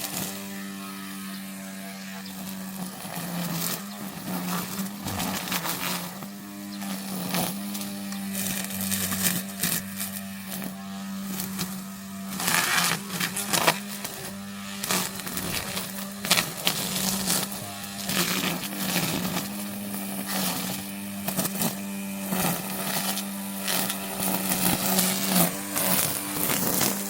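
Battery-powered brush cutter running with a steady motor hum, broken by irregular surges of noise as it cuts through vegetation.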